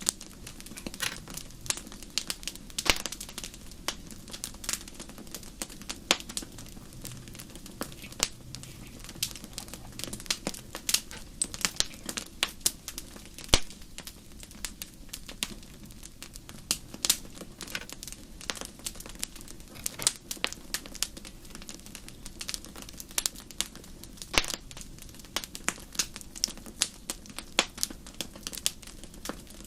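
Wood fire crackling: irregular sharp pops and snaps, several a second and unevenly spaced, over a steady low rumble.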